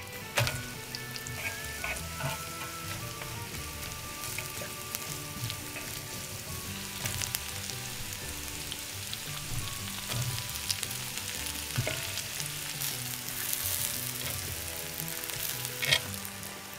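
Food sizzling as it fries in a pan, with a few sharp clicks and knocks, the loudest near the end.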